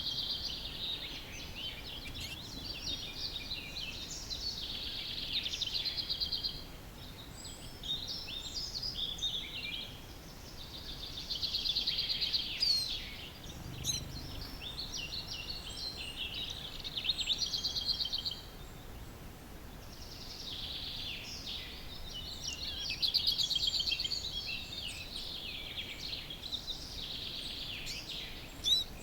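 Early-morning chorus of songbirds: overlapping song phrases a few seconds long, several with fast trills, starting again every few seconds over a faint steady background hiss.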